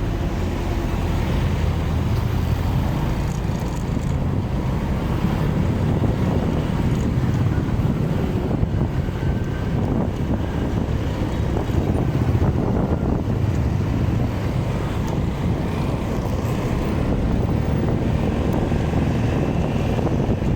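A motorcycle on the move: its engine running under steady wind noise on the microphone, heaviest in the low end and even throughout.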